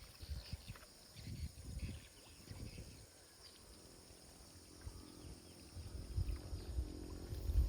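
Footsteps of a person walking outdoors: soft low thuds, about one a second, fading in the middle and getting heavier near the end. In the second half a faint steady hum with a fixed pitch runs underneath.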